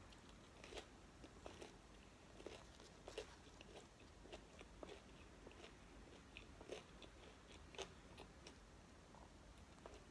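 Faint close-miked chewing and biting of McDonald's fast food: many small, irregular crunches and mouth clicks.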